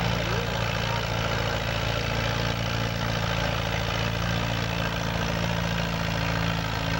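Massey-Harris 44 antique tractor engine running steadily at an even speed.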